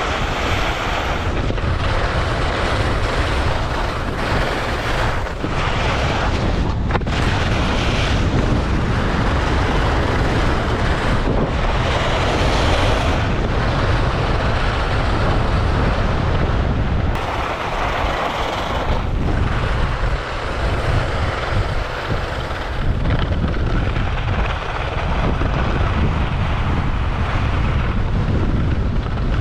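Wind buffeting a GoPro's microphone while skiing downhill at speed: a steady low rumble under a rushing hiss that swells and eases every few seconds.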